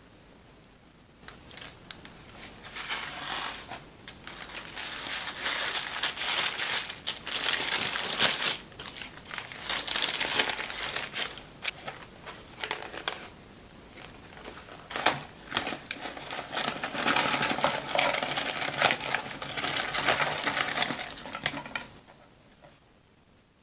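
Paper fast-food wrapping being crinkled and torn open, with crackly rustling that comes and goes in bursts for about twenty seconds.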